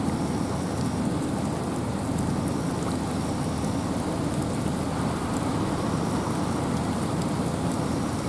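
Steady wind and rain in a forest: a constant low rumble of wind under the hiss of rain, with scattered faint ticks of drops.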